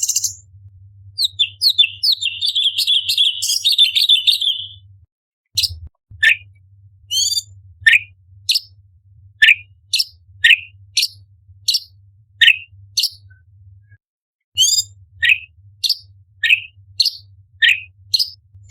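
Orange-bellied leafbird singing: a rapid chattering phrase, then a run of sharp notes that slide downward in pitch, repeated about once or twice a second.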